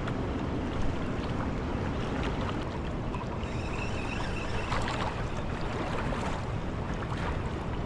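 Steady rush of high, fast river water pouring through a dam spillway, with a few faint clicks.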